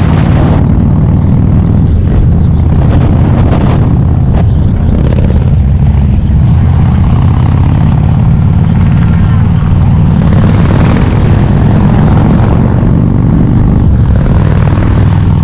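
Harley-Davidson V-twin motorcycle engine running steadily under way, a loud, even low exhaust note.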